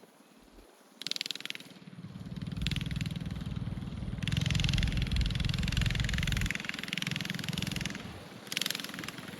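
A mini bike's swapped-in Predator 212 single-cylinder four-stroke engine running under throttle as it is ridden around the course. It rises and falls: it is faint for the first second, builds to its loudest in the middle, eases off after about six and a half seconds, and swells briefly again near the end.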